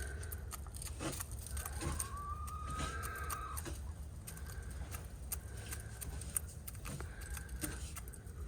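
Backyard hens making soft, drawn-out clucking calls, one longer call about two seconds in, with scattered light clicks.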